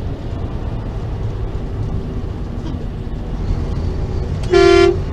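Steady rumble of a truck's engine and road noise heard inside the cab, with one short horn blast near the end.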